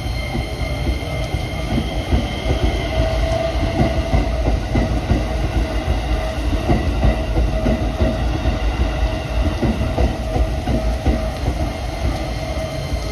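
Keikyû electric train running through on the rails, with a steady rumble, a steady whine of several high tones, and a rapid run of wheel-on-rail clacks through the middle.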